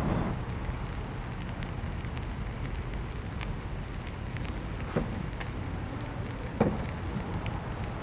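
Oak logs burning, crackling with scattered sharp pops over a steady low rumble; two pops in the second half stand out louder.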